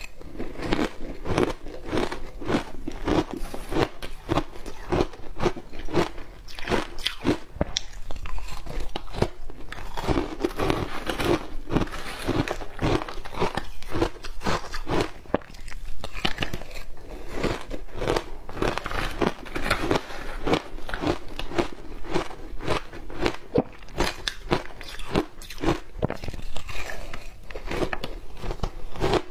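Ice dusted with matcha green tea powder being bitten and chewed close up, a continuous run of rapid, sharp crunches.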